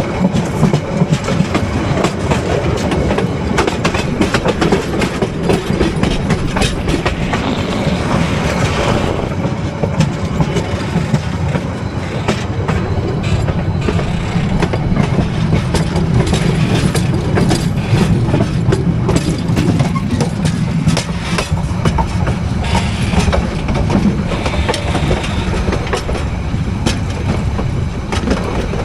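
Passenger train's bogie wheels running over metre-gauge rail, a steady loud rumble with dense rail-joint clicking and sharp knocks as the wheels cross turnout frogs and crossovers.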